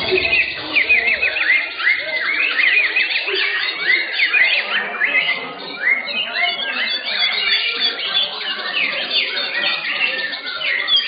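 Many white-rumped shamas (murai batu) singing at once in a contest, a dense overlapping chorus of quick rising and falling notes.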